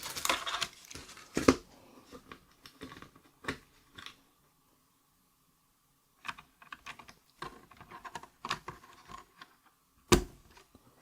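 Scattered small plastic clicks and taps of mechanical keyboard switches being handled and pushed into a hot-swap keyboard's sockets, with a brief pause in the middle and one sharper knock near the end.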